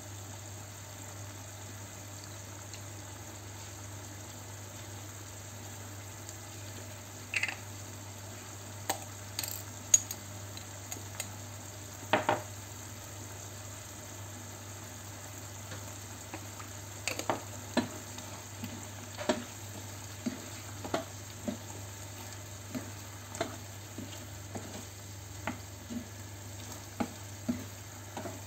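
Pork picadillo sizzling steadily in a pot, with sharp knocks and scrapes of a utensil against the pot from about seven seconds in, coming roughly once a second over the last ten seconds as it is stirred.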